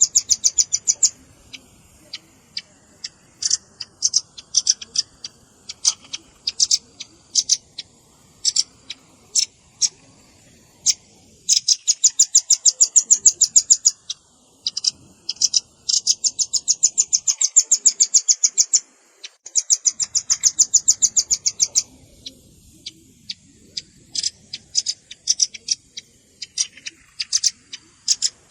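Velvet-fronted nuthatch (red-billed rambatan) calling: sharp, high chips, some scattered singly and some in fast trills of about ten notes a second, each trill lasting two to three seconds.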